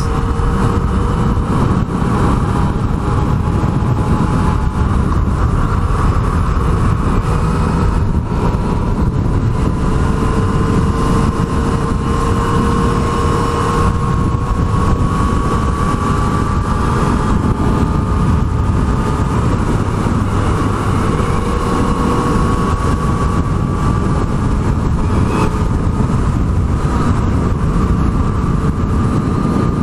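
Yamaha MT-09's three-cylinder engine running at a steady road speed, its pitch rising slowly, mixed with a steady rushing noise.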